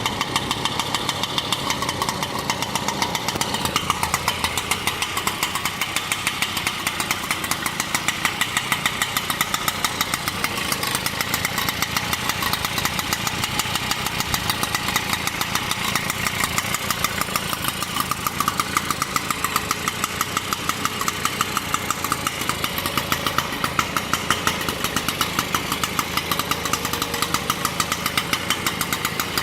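1956 Mobylette AV-78 moped's small single-cylinder two-stroke engine running steadily at a fast idle, its firing pulses even and unchanging; the freshly restored engine is running well.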